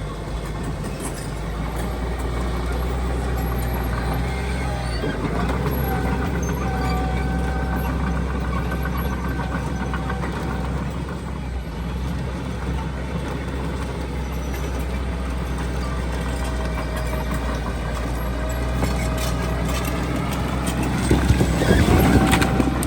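Heavy diesel construction machinery running steadily, a low engine drone with a thin whine above it. About 21 seconds in the sound swells briefly and louder, then settles back.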